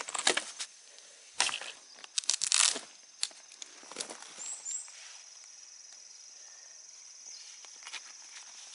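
Crunching and rustling of dry leaves and twigs underfoot, in a few irregular bursts over the first three seconds. After that a faint steady high-pitched trill carries on, with a couple of short chirps.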